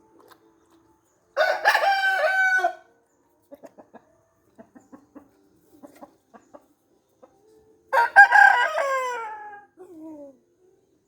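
A rooster crowing twice, about a second and a half in and again near the end, the second crow trailing off and falling in pitch, with faint short clucks between the crows.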